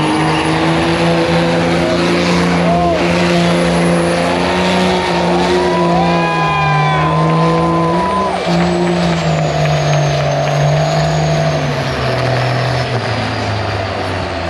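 Large engines running steadily at idle, their low drone drifting slowly in pitch, with a voice heard briefly about halfway through.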